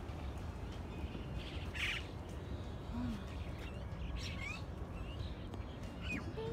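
Birds calling in the shrubbery: a harsh squawk about two seconds in, then short chirps, over a steady low rumble.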